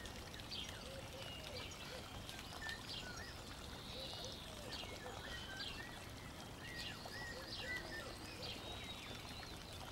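Faint chirping of birds, short arching calls repeating on and off over a low steady hiss.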